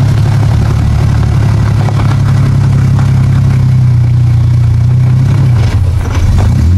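Off-road 4x4's engine running at low, crawling speed, a steady low hum that dips briefly near the end and then picks back up as the driver works the throttle on the climb.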